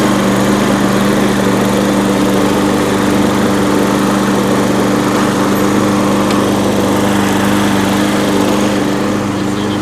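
Toro self-propelled lawn mower's single-cylinder Briggs & Stratton 6.75 engine running steadily, freshly tuned up with new oil, spark plug and air filters. The sound eases a little near the end.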